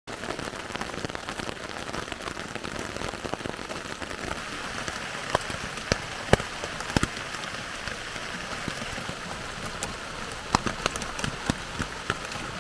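Steady rain falling on a tent, with scattered louder individual drops.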